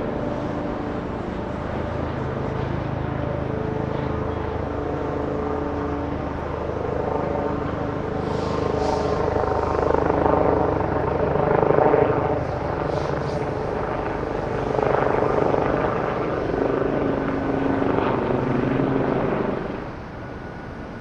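Airbus A330-200 twin-jet on final approach to land, its engines giving a steady whine and rumble. The sound swells to its loudest about ten to twelve seconds in as the plane passes, then falls away sharply near the end.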